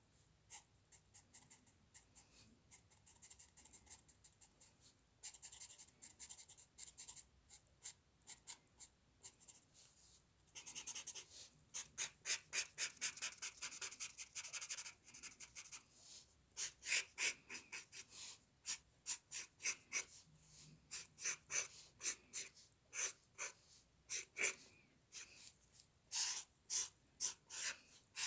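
Drawing strokes on paper: a drawing tool scratching across the sheet in short repeated strokes. They are faint and sparse at first, then louder and packed close together from about 11 seconds in, then separate quick strokes a few per second.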